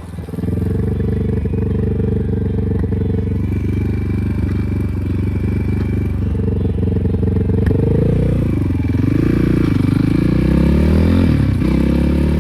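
Enduro motorcycle engine running steadily under throttle, then revving up and down from about eight seconds in.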